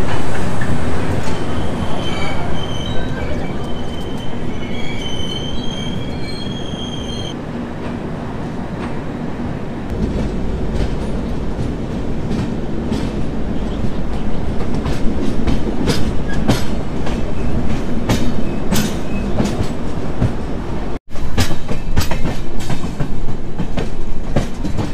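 Moving express passenger train, the Hatia–LTT Mumbai Express, running with a steady rumble. A high-pitched wheel squeal rings for about six seconds near the start. Later comes a run of sharp clicks from the wheels over rail joints.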